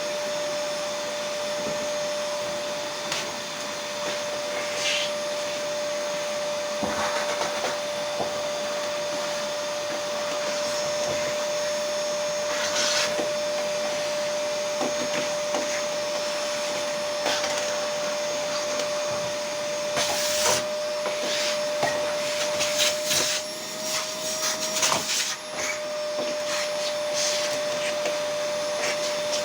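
A motor running steadily with a constant whine, with scattered knocks and clicks over it, more of them in the second half.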